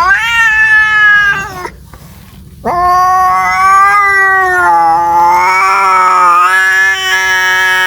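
Domestic cat yowling, the drawn-out call of a cat calling for a mate. A shorter call rises in pitch at the start and breaks off after under two seconds, then a long wavering yowl begins about two and a half seconds in and carries on.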